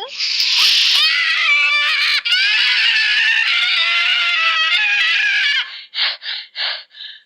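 A loud, high-pitched scream held for about five and a half seconds, wavering in pitch, then broken off into five short cries in quick succession near the end.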